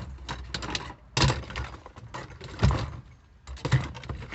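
Handling noise from hands working with hardware in the truck cab: a run of small clicks and rattles, with three sharper knocks about a second in, midway and near the end, over a steady low hum.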